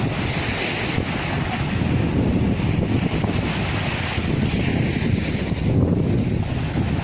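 Sea waves washing in as surf, with wind buffeting the microphone in a low, rumbling rush that swells and eases.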